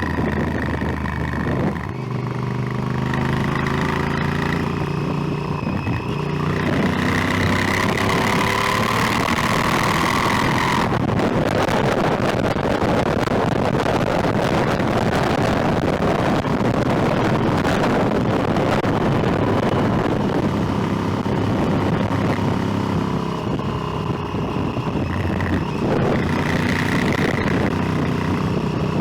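Motorcycle engine running under way, its pitch stepping and shifting as the rider works the throttle and gears. About ten seconds in, loud wind rush on the microphone swamps the engine for roughly twelve seconds, then the engine note comes back near the end.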